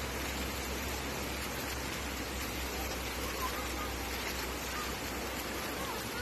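Steady, even rush of water, the kind made by heavy rain or a flooded river's fast current.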